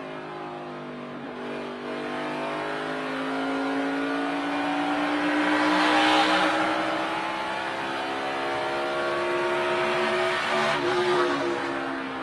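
NASCAR Cup car's pushrod V8 heard from the in-car camera at racing speed. The engine note dips slightly and then climbs steadily as the car accelerates, with a loud rush of noise about halfway through and the pitch easing near the end.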